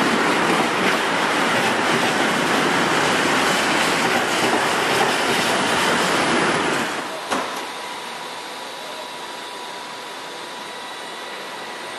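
Container freight train passing at speed alongside the platform: a loud, dense rumble of wagons with quick clacks of wheels on the rails. About seven seconds in it stops abruptly, and a quieter steady hum with a faint thin tone follows.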